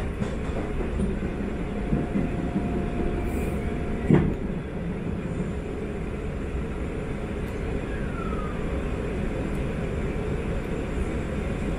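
Inside a Sanyo Electric Railway 5000 series electric train running at speed: the steady rumble of wheels on the rails, with one sharp, loud knock about four seconds in and a short falling whine a few seconds later.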